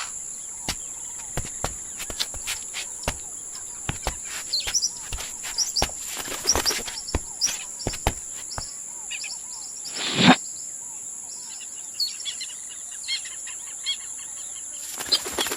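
Tropical forest ambience: a steady high buzz of insects, with scattered sharp clicks and short bird chirps. A loud, brief rushing sound about ten seconds in.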